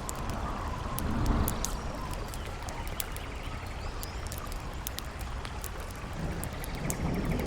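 Campfire crackling with many sharp pops over the steady rush of a flowing river, with a low rumble swelling about a second in and again near the end.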